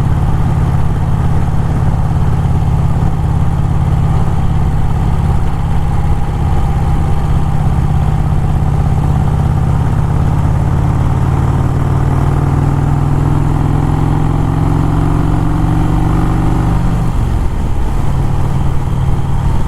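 Motorcycle engine running under way, its note climbing slowly as it accelerates, then easing off briefly about seventeen seconds in before pulling again.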